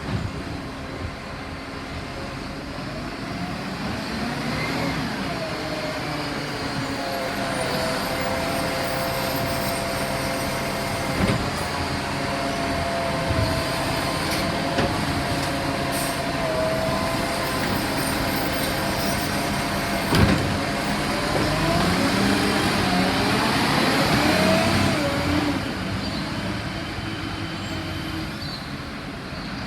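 Garbage truck's engine running under hydraulic load, with a whine that rises and falls as the bin-lifting arm works, swelling to a peak near the end before dropping away. A few sharp knocks are heard, the loudest about two-thirds of the way through.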